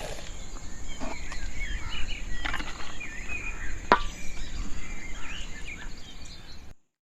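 Outdoor ambience: small birds chirping, with a steady high-pitched whine and scattered knocks, the sharpest about four seconds in. The sound cuts off to silence just before the end.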